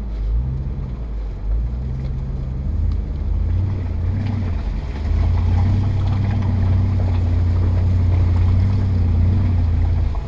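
Off-road vehicle's engine pulling under load, its low drone growing louder and steadier about five seconds in.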